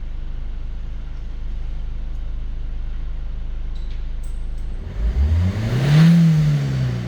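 Ford Focus 1.6 TDCi four-cylinder diesel idling steadily, then revved once about five seconds in: the engine speed rises to a peak and drops back toward idle.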